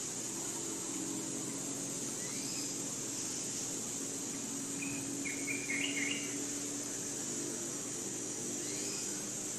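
Forest ambience: a steady high-pitched insect drone with a few short bird chirps, and a brief cluster of bird calls about five to six seconds in.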